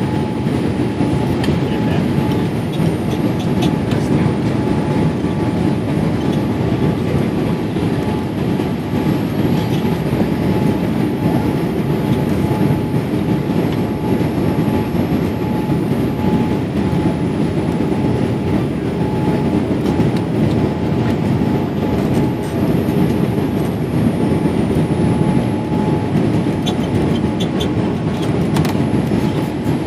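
Steady cabin noise inside a Boeing 787-8 airliner: an even, unbroken rumble with a faint steady hum above it.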